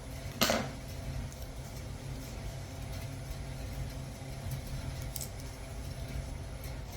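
A single sharp clink of kitchenware, like a utensil striking a glass or bowl, about half a second in, over a steady low hum; a few faint clicks follow near five seconds.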